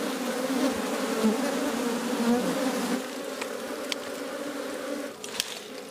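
Many honeybees buzzing together in a steady drone, louder for the first three seconds and then softer, with a few faint clicks near the end.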